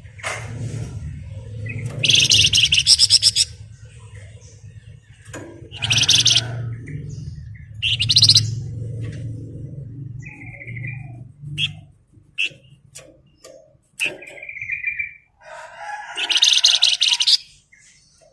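A Flamboyan songbird singing in its rapid, dense 'ngebren' style. It gives four loud bursts of very fast rattling trills, with short whistled notes and clicks between them. A low steady rumble runs underneath for most of the time.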